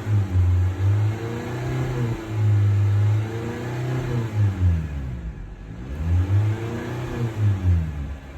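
2020 Honda Civic engine revved repeatedly from the exhaust side, engine speed rising and falling about every two seconds, briefly dropping back toward idle about halfway through.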